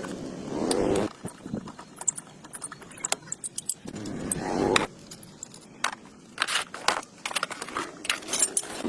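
Metal objects clinking and rattling as they are handled, a string of irregular sharp clicks, with two short scraping swells about half a second and four seconds in.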